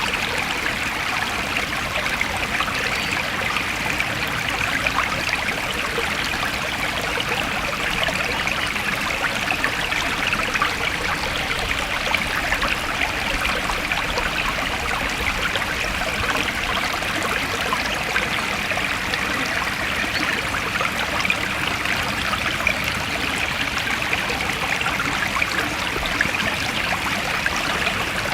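A forest stream flowing and trickling over stones, a steady babbling of water with many small splashes.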